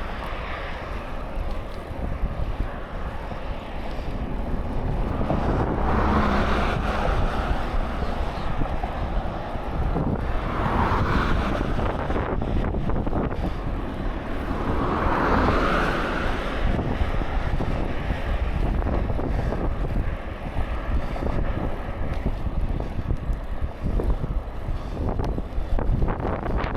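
Wind rushing over the microphone of a rider on a moving bicycle, a steady low rumble; the noise swells three times, about six, eleven and fifteen seconds in.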